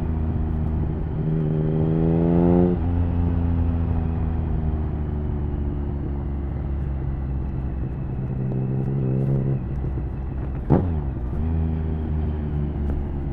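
Triumph Speed Triple 1050's inline three-cylinder engine under way through an HP Corse Hydroform exhaust with dB killer: revs climb about a second in and drop sharply near three seconds at a gear change, then hold steady. Another short rise comes around nine seconds, and a sudden sharp blip sounds about eleven seconds in.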